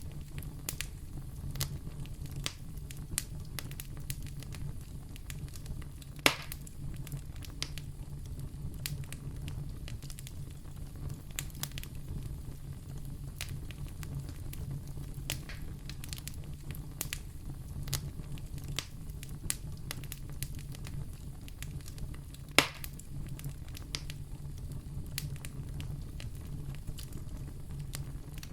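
Wood fire burning in a fireplace: a steady low rumble with frequent small crackles and two louder pops, one about six seconds in and one near 22 seconds.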